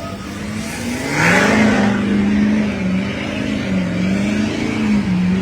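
Car engine revving up about a second in, with a brief rush of noise as it climbs, then held at high revs, wavering up and down.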